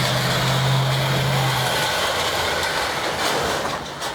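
A motor vehicle's engine running steadily under a loud rushing noise; the engine's hum drops away about a second and a half in while the rushing continues.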